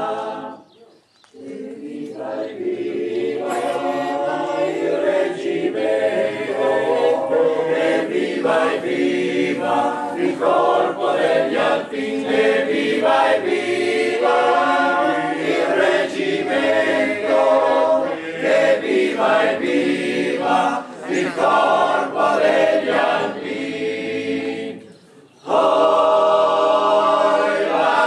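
A choir of many voices singing unaccompanied in chorus, with a brief pause about a second in and another near the end before the singing resumes.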